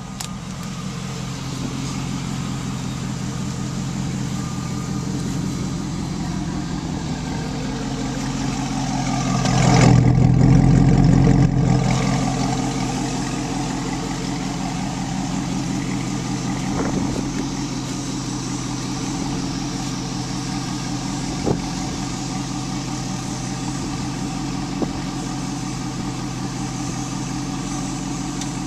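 1972 Chevy C10 pickup engine idling steadily just after being started. The engine rises briefly about ten seconds in, then settles back to idle.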